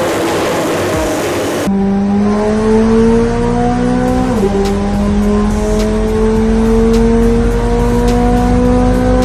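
Tuned McLaren 765LT's twin-turbo V8 accelerating hard on a chassis dyno. About a second and a half in the sound cuts to a steady engine note rising in pitch. Near the middle it drops once as the gearbox upshifts from sixth to seventh, then climbs slowly again.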